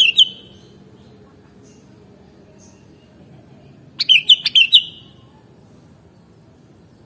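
Sooty-headed bulbul (kutilang) singing: the tail end of one short phrase right at the start, then one phrase of about five quick notes about four seconds in.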